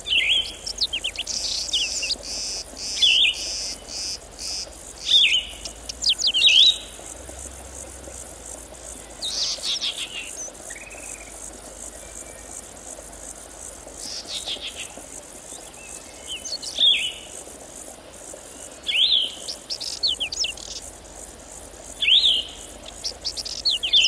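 Songbird singing short phrases of quick falling notes, repeated every two to three seconds, over a faint high buzz of insects.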